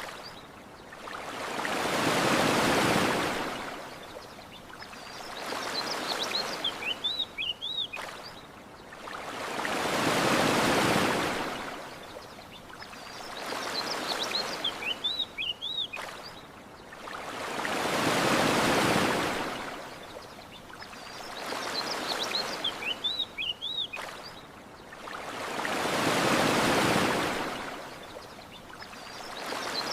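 Ocean waves washing onto a shore: a big swell about every eight seconds with a smaller one in between. A short phrase of small-bird chirps comes just before each big swell, and the same eight-second stretch repeats as a loop, with a faint click at each seam.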